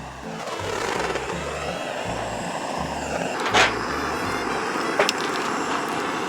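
A steady hissing jet, aimed at the kindling to get the wood fire going, starts just after the beginning. Its tone dips, rises again and then holds steady. Two sharp clicks come partway through, over background music with a low beat.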